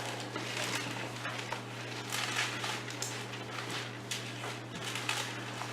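Bible pages being turned and leafed through: soft, irregular rustles over a steady low electrical hum.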